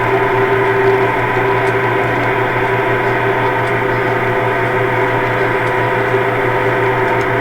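Railway locomotive standing at a station, giving a steady droning hum of several held tones that does not change.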